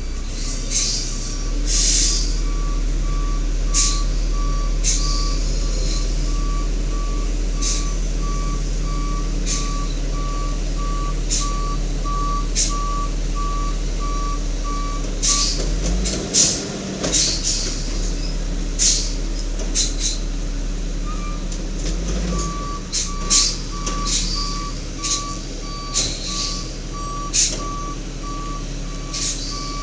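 Garbage truck backing up: its reversing alarm beeps steadily over the low running engine, stops about halfway through and starts again a few seconds later. Short, sharp high hisses come again and again throughout.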